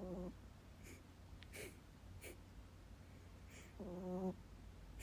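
A sleeping dog snoring: two short pitched snores, one at the start and one about four seconds in, with faint short breaths between them.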